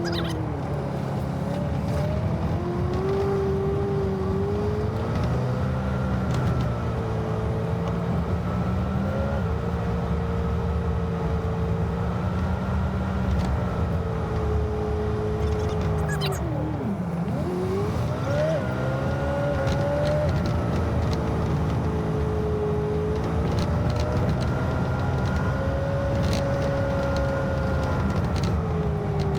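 Rollback tow truck's engine and road noise heard from inside the cab while driving, the engine note holding steady for stretches and shifting up and down with gear changes, with a deep drop and quick rise about seventeen seconds in.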